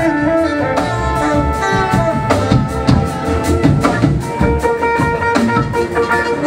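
Live blues-rock band playing an instrumental passage: electric guitar over a drum kit, with held notes from other instruments joining about four seconds in.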